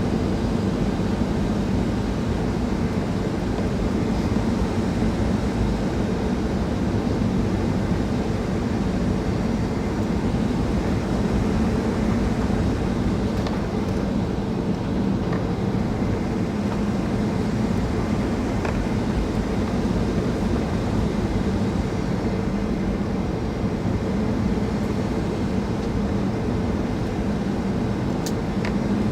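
Steady cabin noise inside a Boeing 737-800 in flight: the even drone of engines and airflow around the fuselage, with a low hum that holds constant throughout.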